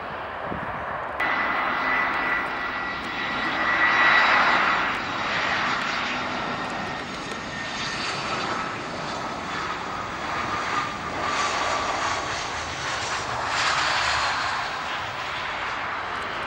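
Jet engines of an Airbus A320-family airliner on landing, heard from beside the runway: a steady engine noise with a high whine that falls slowly in pitch. The sound swells twice as the aircraft passes. The character of the sound changes abruptly about a second in, as from a cut to a new clip.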